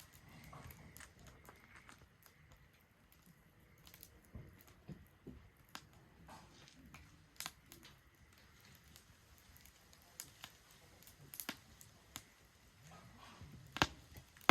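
Wood fire burning in a Solo Stove Ranger fire pit, crackling with irregular sharp pops and snaps, the loudest pop near the end.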